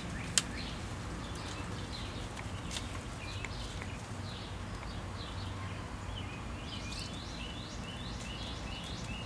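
Small birds chirping in quick, short calls again and again over steady outdoor background noise, with one sharp click about half a second in.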